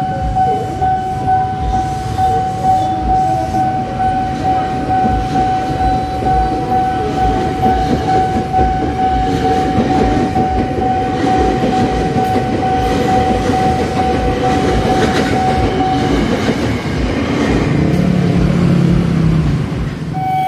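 A KRL commuter electric train passes over a level crossing, its wheels clattering and rumbling over the rail joints. Under it, the crossing's warning alarm holds a steady high tone, which stops about four seconds before the end. A short low tone sounds near the end.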